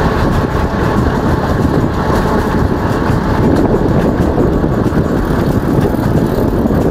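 Kalka–Shimla narrow-gauge passenger train running, a steady rumble of coach wheels on the rails heard from inside a carriage through an open window.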